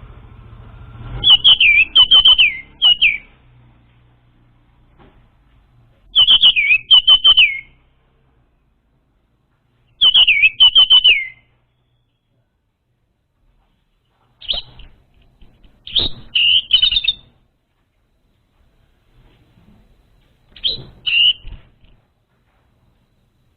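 Orange-headed thrush song: about six short phrases of quick, high whistled notes, many sliding downward, each phrase about a second long with pauses of a few seconds between.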